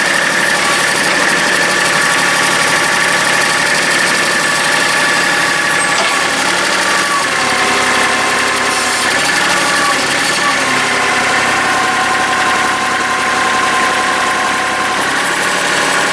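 Tractor engine running steadily, its speed shifting slightly a few times.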